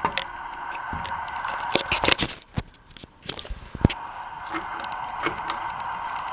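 Ceiling fan running on medium speed: a steady motor hum with frequent irregular clicks and ticks. The hum briefly dips about two and a half seconds in.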